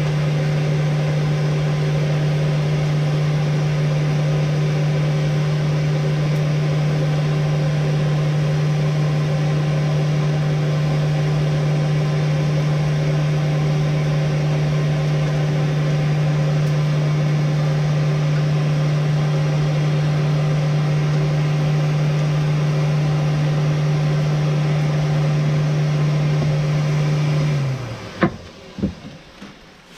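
A motor hums at one steady pitch, then is switched off near the end and winds down briefly, followed by a few sharp knocks.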